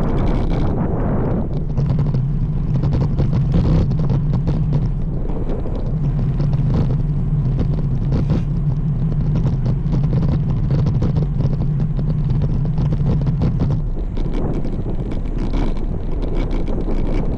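Wind buffeting the microphone while riding a road bike, with a steady low hum that comes in about two seconds in and stops about three seconds before the end.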